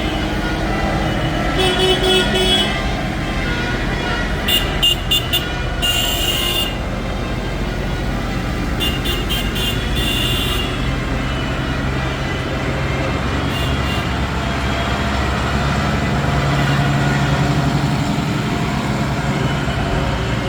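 Tractor engines running with a steady low rumble as they pass, and horns tooting in short bursts several times, some as rapid repeated toots.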